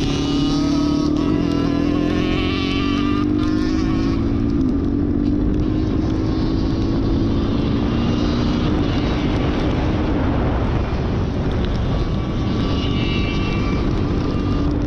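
Dirt bike engine running under way, its note climbing slowly over the first few seconds, dropping about four seconds in, then holding steady, with wind rumbling on the microphone.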